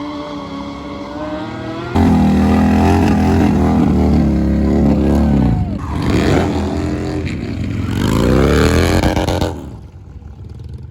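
Motorcycle engine revving hard. It comes in suddenly loud about two seconds in, rises and falls in pitch several times, and cuts off near the end.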